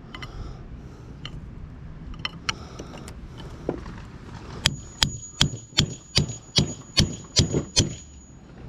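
Hammer blows on the metal of an electric motor being torn down for its copper: faint clinks and taps, then a little past halfway about nine sharp strikes at two to three a second, with a high ringing tone held under them.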